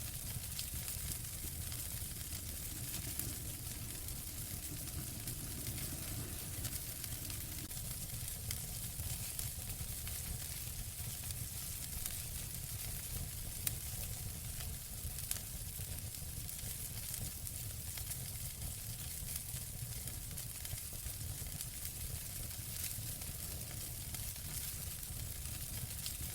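Wood fire burning in a fireplace: a steady hiss with frequent small crackles and pops over a low rumble, with one louder pop about halfway through.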